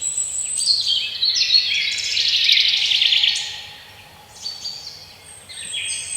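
Several songbirds singing over one another in a forest chorus of high chirps and whistled phrases, thickening into a fast trill about two to three seconds in, easing off around four seconds, then picking up again near the end.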